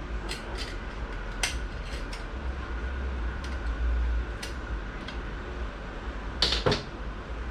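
Light metallic clinks and taps of transmission clutch-drum parts (steel and clutch plates, snap ring) being handled and set in place, scattered through, with a louder double clink near the end. A steady low hum runs underneath.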